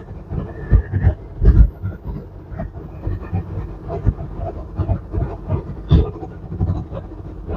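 Semi-truck cab on a rough road at highway speed: steady low road and drivetrain noise broken by irregular thumps and rattles as the truck jolts over bumps in the pavement.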